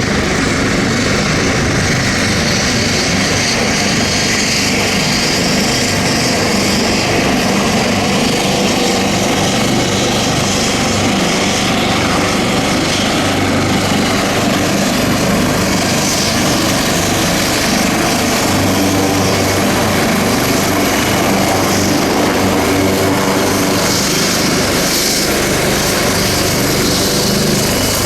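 Leonardo AW249 Fenice attack helicopter in display flight: its rotor and turbines run loud and steady.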